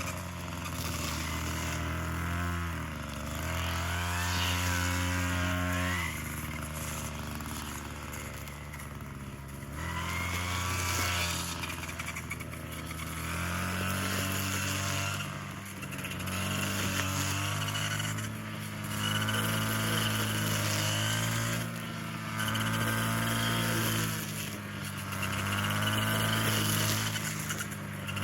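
An engine running, its speed rising and falling every few seconds.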